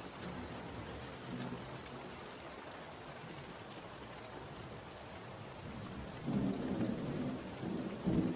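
Steady rain falling, with a low rumble of thunder swelling about six seconds in and again briefly near the end.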